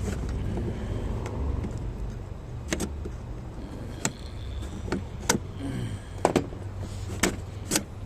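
Sharp plastic clicks and knocks, about six of them over the second half, as intake pieces are pulled loose by hand from the engine bay, over a steady low rumble.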